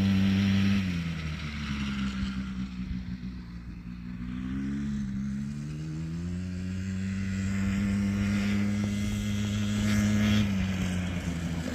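A small motor vehicle's engine running and revving: its pitch drops about a second in, climbs again around four to five seconds, then holds steady before easing off near the end.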